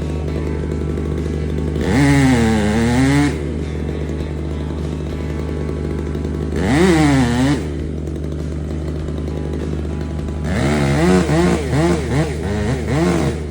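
Chainsaw revving in three bursts while cutting the felling notch, its pitch dipping and climbing back each time, over a steady low engine drone.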